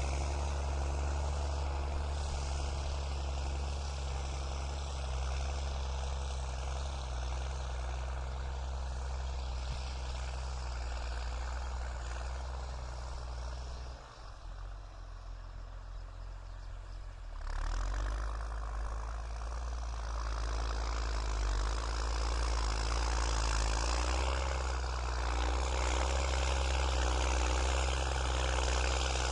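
New Holland TS6.125 tractor's diesel engine running steadily. It drops in level for a few seconds about halfway through, then comes back up.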